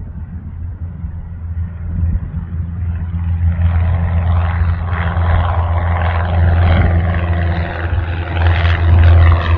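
Cessna 172's four-cylinder piston engine and propeller, growing louder from a few seconds in as the plane comes nearer, over a steady low rumble.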